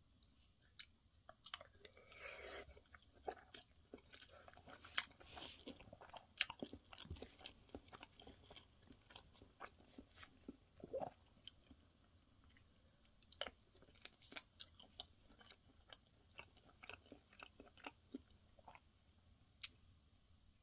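Quiet close-up chewing of a spoonful of fried rice topped with fried egg: soft, wet mouth sounds with many small irregular clicks and crunches, now and then a wooden spoon against the plastic container.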